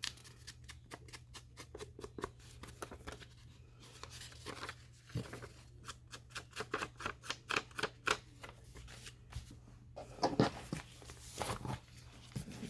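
Scissors cutting paper: long runs of quick, crisp snips at an even pace, with a few louder rustles of paper being handled near the end.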